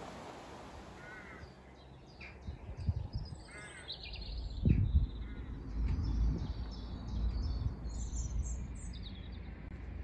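Birds calling outdoors: a few calls that rise and fall, spaced a second or two apart, with smaller birds chirping higher up. A low rumble comes in about four seconds in, with one sudden low thump near the middle as the loudest sound.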